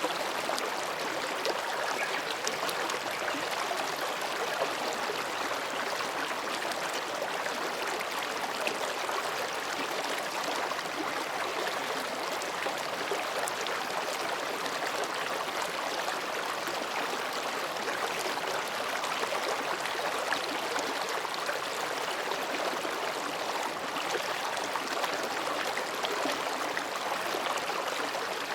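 Mountain stream babbling over rocks, a steady even rush of water.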